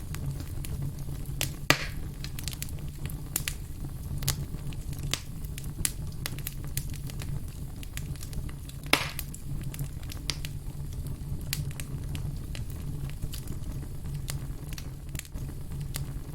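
Campfire crackling: irregular quick snaps and pops from burning wood over a steady low rumble, with two louder pops, one near the start and one about halfway through.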